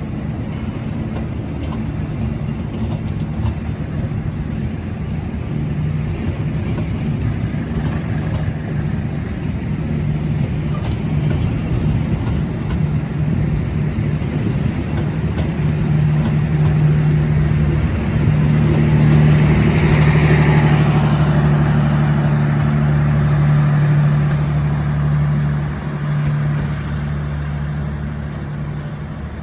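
Diesel-electric locomotive hauling a passenger train at the station, its engine drone steadily building to a peak about two-thirds of the way through, then easing off, over a background of rolling noise.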